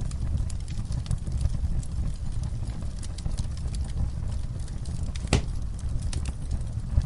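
Wood fire burning, with a steady low rumble of flame and many small irregular crackles. One louder pop comes about five seconds in.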